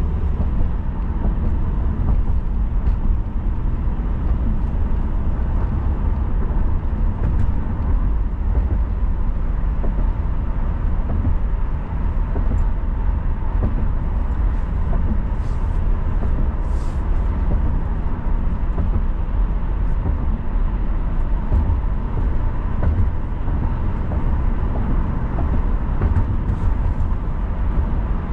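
A car driving on city roads: a steady low rumble of tyres and engine, with a faint steady whine and a few faint high ticks around the middle.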